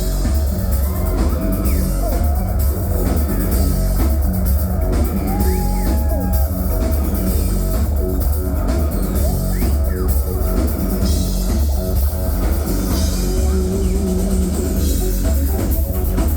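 Live industrial rock band playing loud through a club PA: heavy bass, drum kit and distorted guitar, without vocals, recorded close to the speakers.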